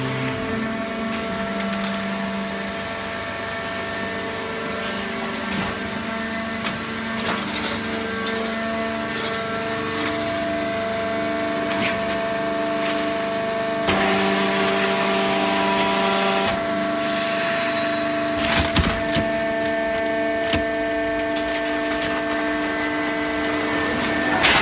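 Hydraulic baling press running: the power unit gives a steady hum made of several tones, under repeated cracking and crunching as the waste is compressed. A louder hiss comes in about fourteen seconds in and lasts a couple of seconds.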